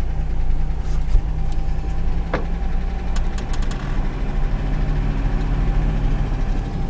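Land Rover's engine running with a steady low drone, heard from inside the cab, with a few light clicks and rattles over it.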